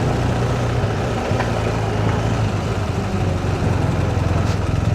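Motorcycle engine running steadily on the move, a low even drone under a steady rush of wind and road noise.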